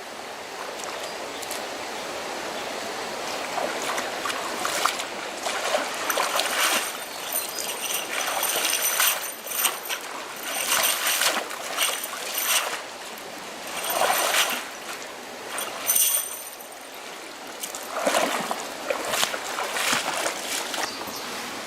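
Running water with repeated splashing and trickling, in uneven surges every second or two over a steady flow.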